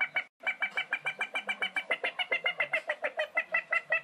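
A rapid, even run of short bird-like cackling notes, about seven a second, carrying on without a break.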